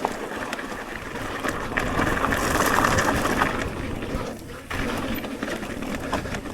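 Electric mountain bike rolling fast down a dirt trail: a rush of tyre noise with sharp clicks and rattles from the bike over bumps, loudest a couple of seconds in.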